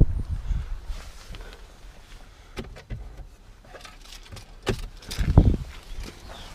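Wind buffeting the microphone, with a few scattered knocks and clicks and one heavy thump a little over five seconds in.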